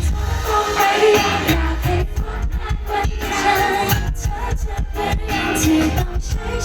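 Live pop music from a band through a concert sound system, with a steady drum beat and bass under a wavering melodic line.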